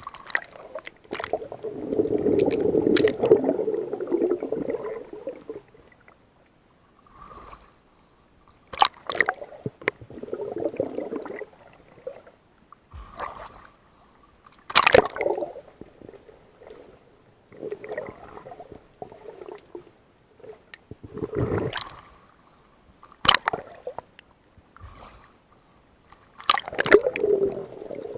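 Water sloshing and gurgling in surges every five or six seconds, with sharp clicks and splashes among them.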